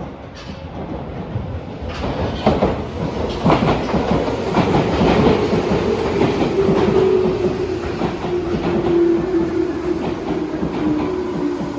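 Tobu Railway electric train pulling in, wheels clattering over rail joints, with a motor whine that falls slowly in pitch as it slows.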